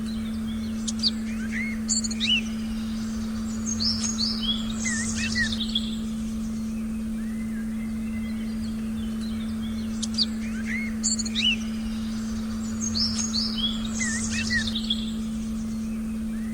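Forest birdsong, a run of chirps and whistles, heard over a steady low meditation tone. The same run of calls comes again about nine seconds later.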